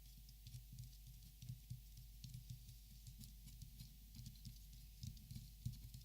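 Faint, irregular light tapping and scratching, many soft taps scattered over the few seconds with no steady rhythm.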